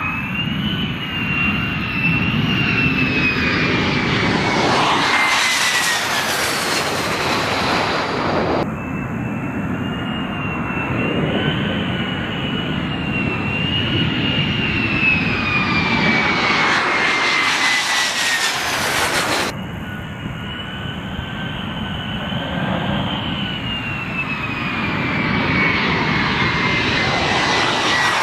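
F-35B Lightning II jets' turbofan engines running loud as the aircraft come in to land and pass, a high whine slowly falling in pitch over a heavy rush. The sound breaks off sharply twice and starts again, as separate passes are cut together.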